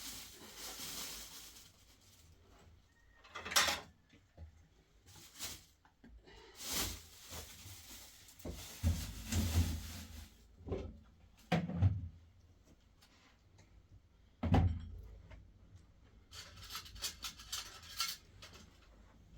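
Household objects being handled: scattered knocks and bumps, with a run of quick light clatter near the end.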